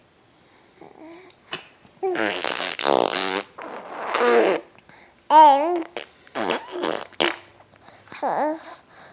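Fart noises made with the mouth, blown raspberries: a run of five or six separate buzzing bursts, some with a wobbling pitch, starting about two seconds in.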